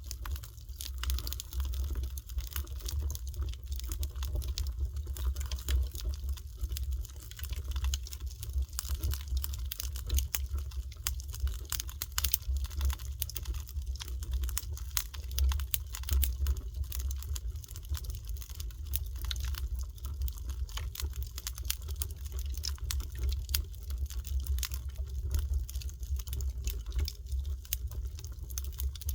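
Wood fire crackling, with dense, irregular small pops and snaps over a steady low rumble.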